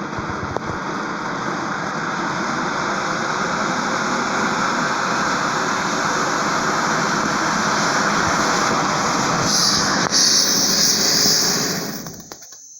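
A loud, steady hissing roar that grows brighter near the end, then cuts off suddenly about twelve seconds in.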